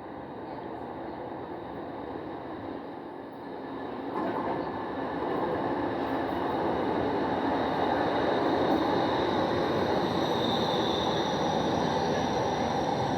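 Train running, a steady rushing noise that grows louder about four seconds in, with a faint high whine near the end.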